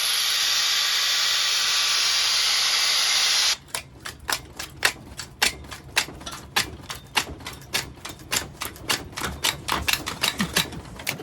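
Loud, steady hiss of a power tool grinding or cutting metal in a shower of sparks, which stops abruptly about three and a half seconds in. Then comes a run of quick, irregular sharp metallic clicks and taps, several a second.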